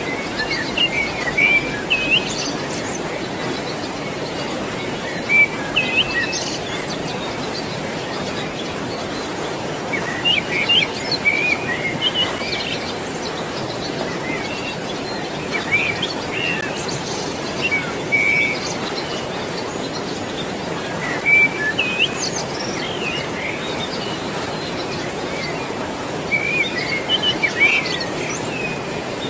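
Birdsong over a steady rush of flowing water: short bursts of chirps come every few seconds over an even background roar.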